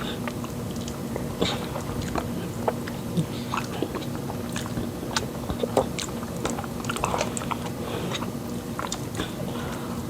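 Close-miked eating sounds of people chewing fufu and pepper soup: many short, wet mouth clicks and lip smacks scattered throughout, over a steady low hum.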